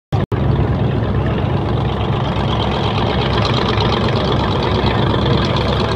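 Propeller engines of the Northrop N-9M Flying Wing running steadily, a loud, even low drone.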